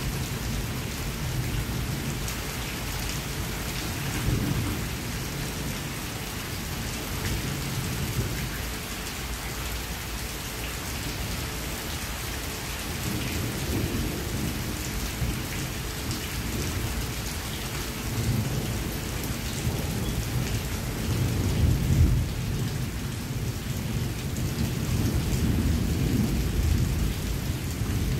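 Heavy rain pouring steadily onto grass and leafy trees, a continuous hiss over a steady low rumble that swells slightly now and then.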